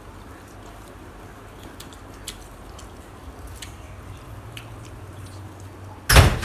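Quiet chewing and eating sounds with small scattered clicks over a low steady hum. Near the end a sudden loud noise, lasting under half a second, as a gust of storm wind comes up.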